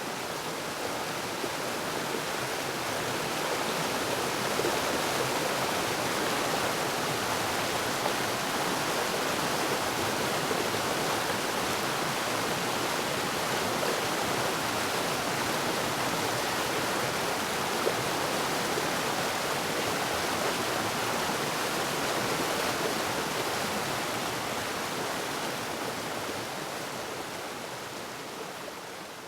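Waterfall rushing: a steady, dense hiss of falling water that swells over the first few seconds and fades down near the end.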